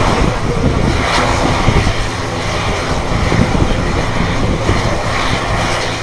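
Aircraft engines running steadily, a loud continuous rumble, with wind on the microphone.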